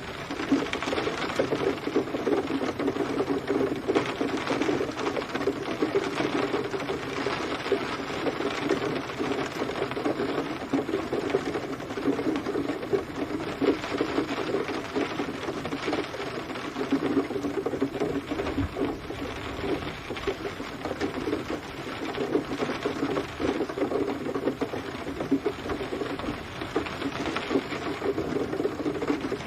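Steady rain, with a dense, rapid patter of drops.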